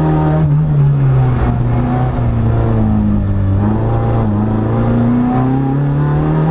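Citroën AX GTI rally car's four-cylinder engine running hard, heard from inside the cabin: the revs dip about two seconds in, then climb steadily toward the end.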